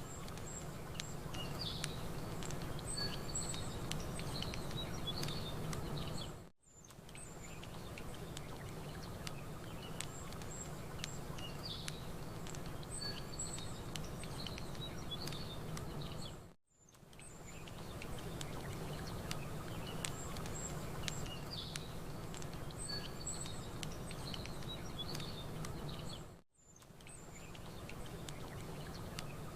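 Campfire crackling with small birds chirping over a steady low rush. The sound loops, briefly fading out and back in about every ten seconds.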